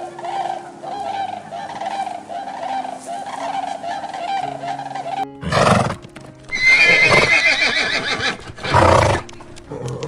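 Horse neighing: a long wavering whinny about six and a half seconds in, with short loud bursts before and after it, over background music. A regular pulsing sound fills the first half.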